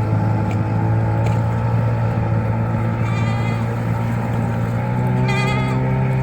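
Goats bleating twice, quavering calls about three and five seconds in, over the steady drone of a boat engine.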